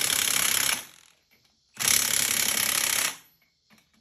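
Impact wrench hammering in short bursts, each a second or more long, with gaps between them.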